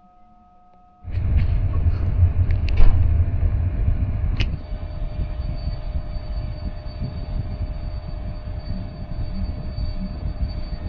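Passenger train running on the rails: a heavy rumble that starts suddenly about a second in, with a few sharp knocks over the next few seconds and a high steady whine joining in after about four and a half seconds.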